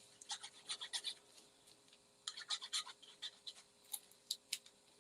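Paper and crafting supplies being handled on a work table: short, irregular scratches, rubs and light taps.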